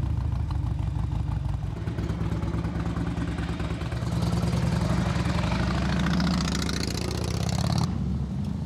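Harley-Davidson V-twin touring motorcycle engine running just after a start, a little louder and fuller from about four seconds in. The sound is cut off abruptly near the end.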